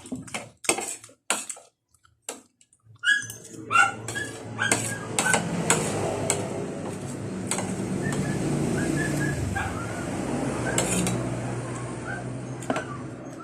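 A metal utensil clinking and knocking against a pan. About three seconds in, a steady frying sizzle starts as the tortang paklay mixture cooks, with scattered clinks over it.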